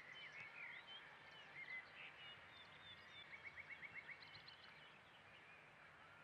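Faint birdsong over a low outdoor hiss: small birds chirping and whistling, with a rapid trill of repeated notes about three seconds in.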